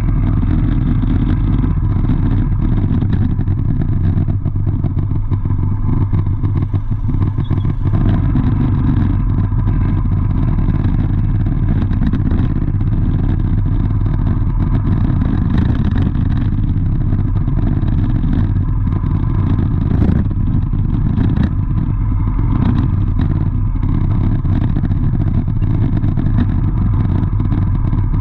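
Steady motor-vehicle engine and road noise, a constant low rumble with motorcycle engines among it.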